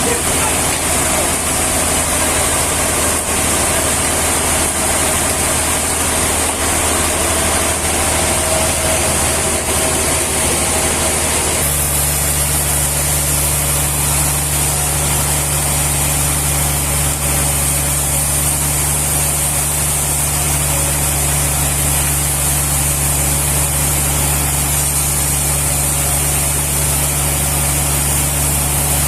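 Sawmill machinery running steadily, a motor hum under a loud hiss. About twelve seconds in, the hum abruptly drops to a new steady pitch and the hiss brightens.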